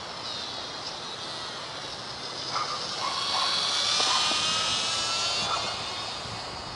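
Small electric motor and propeller of a WLToys F949 Cessna-182 RC plane whining in flight. The high whine swells to its loudest about four seconds in, then fades as the plane passes.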